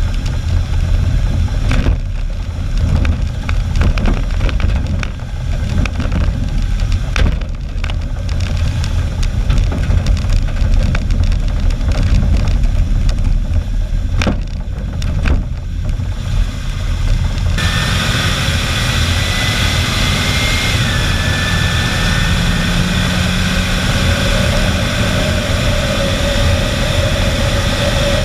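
A 1974 Chevy 3/4-ton pickup driving, heard from a camera strapped to its front grille: engine and road noise under heavy wind rumble, with many sharp knocks and rattles from bumps. About 17 seconds in the sound switches to a steadier, brighter rush with a faint steady whine.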